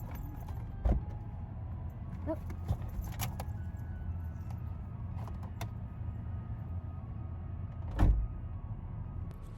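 Steady low rumble of a car, with two car-door thumps: a sharp one about a second in and a louder one near the end. A few light clicks come in between.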